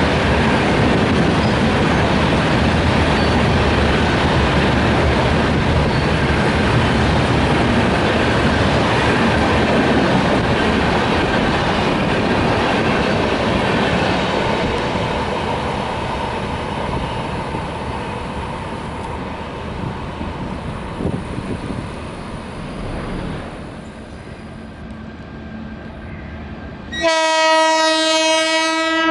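A passenger train of LHB coaches running past at speed, a loud steady rumble of wheels on rail that fades as the last coaches go by. Near the end, a WAG-12 electric locomotive sounds its horn in one loud held blast.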